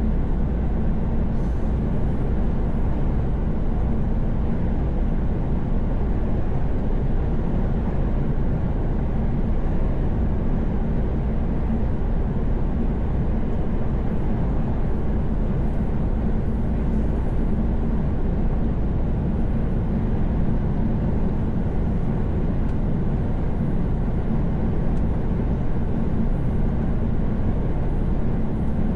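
Truck's engine and tyres running steadily at highway cruising speed, heard from inside the cab as an even, low-pitched road noise.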